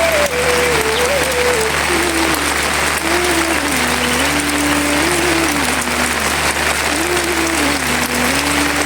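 Heavy rain falling steadily, a dense even hiss, with a slow single-line melody of held notes playing softly over it.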